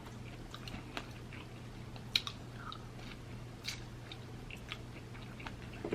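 Quiet chewing, with scattered soft mouth clicks and smacks, over a faint steady low hum.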